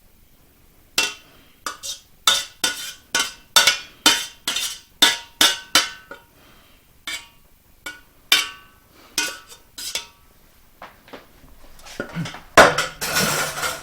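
A utensil clinking and scraping against a pot and small ceramic crocks as chicken pot pie filling is spooned in: a run of sharp clinks with a short ring, about two a second, then a longer, denser scrape near the end.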